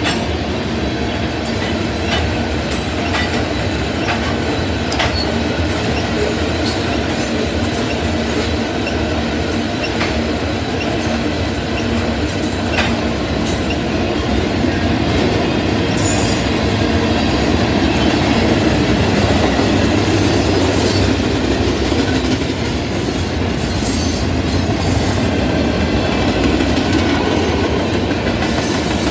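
Freight cars of a mixed freight train rolling past: steel wheels rumbling steadily on the rails, with sharp clanks and clicks scattered throughout.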